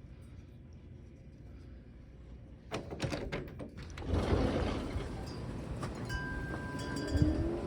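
Gusty wind blowing across the microphone. It starts about three seconds in, after a few sharp clicks, and grows louder a second later, with brief ringing tones near the end.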